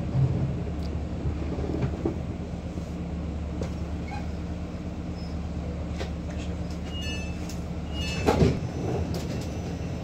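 Steady low hum of an electric passenger train heard from inside the carriage, with scattered light clicks and rattles. About seven and eight seconds in come a few short high beeps, followed by a single knock, the loudest sound.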